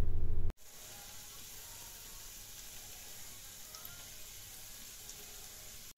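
Beaten eggs frying in olive oil in a nonstick frying pan: a steady, light sizzle. A short, louder sound cuts off abruptly about half a second in, just before the sizzle.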